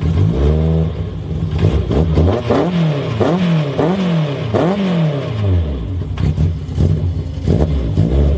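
BMW E30 M3 engine revving while the car stands still, the revs climbing and dropping in about five quick throttle blips in the middle, then settling back to a lower, uneven run with a few sharp cracks near the end.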